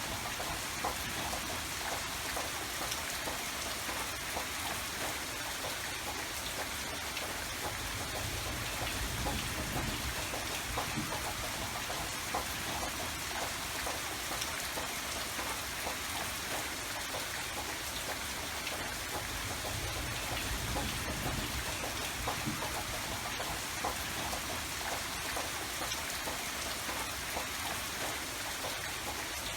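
Steady rain falling, a dense patter of drops striking a surface over a low rumble.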